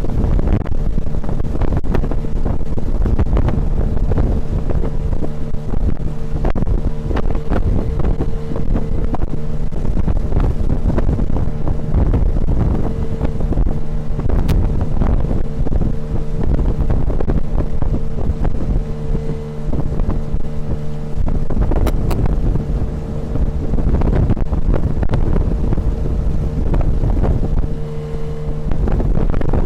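Tohatsu 9.8 outboard motor on an inflatable boat running steadily under way, a constant engine hum with irregular thumps, and wind buffeting the microphone.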